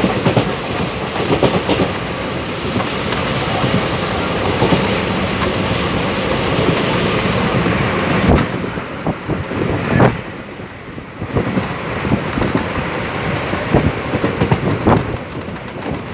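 Passenger train running on the tracks: a loud, steady rumble with scattered sharp knocks, easing off briefly about ten seconds in.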